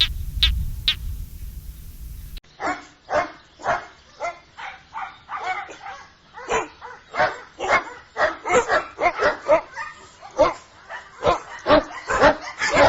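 A dog barking over and over, about two to three barks a second. The barking comes in after a couple of seconds of a few short high chirps over a low rumble.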